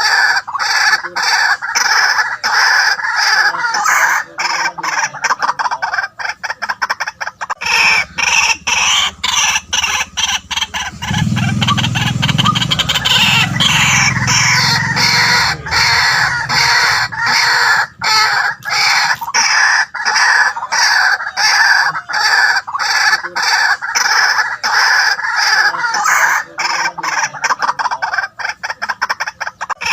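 White-breasted waterhen calling: a continuous, rhythmic run of repeated harsh 'kwak' notes. A deeper sound joins for a few seconds around the middle.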